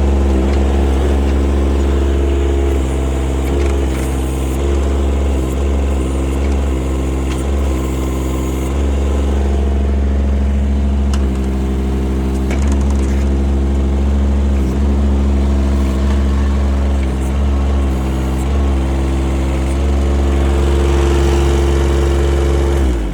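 Kubota D722 three-cylinder diesel engine of a mini excavator running steadily, its note shifting in steps every second or so as the machine is operated, with a steady higher tone held near the end.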